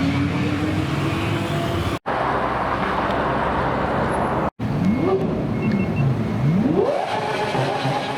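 Supercar engines revving and accelerating in short cut-together clips. First an engine climbs slowly in pitch. After the second cut there are two quick revs that rise and fall. Then the pitch climbs steeply and holds high near the end.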